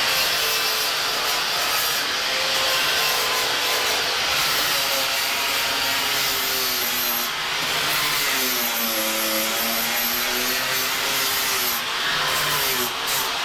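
Handheld electric power tool running steadily under load as it cleans up metal on the buggy's frame, its motor pitch dipping and rising as the load changes.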